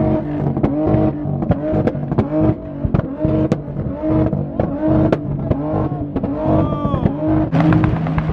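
Several car engines revving again and again, the pitch rising and falling a few times a second, with sharp cracks mixed in, as modified cars two-step and rev at a car meet.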